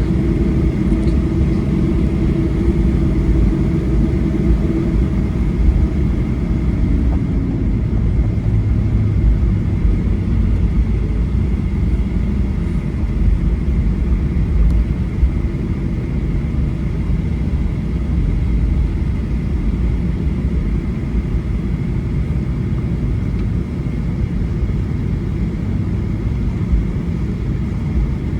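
Boeing 737-800 cabin noise after landing: a steady low rumble with a faint constant high whine, as heard from a passenger seat.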